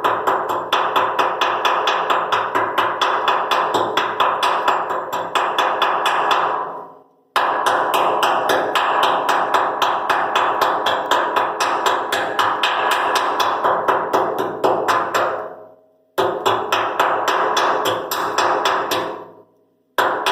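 Rapid, steady chipping strikes, about six a second, knocking old gasket material off the furnace's top. The chipping comes in three long runs that each trail off and stop.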